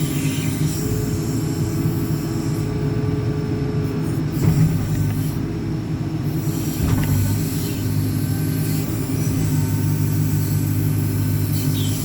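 JCB 4CX backhoe loader's diesel engine running steadily under hydraulic load as the rear backhoe boom works. There is a brief louder surge about four and a half seconds in, and the engine note grows heavier from about seven seconds.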